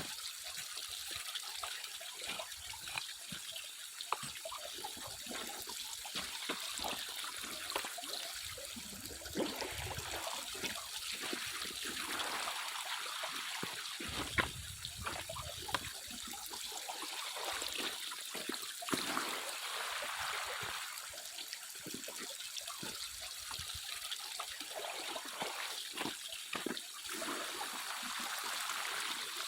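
Water trickling and splashing, swelling and easing, with occasional small clicks.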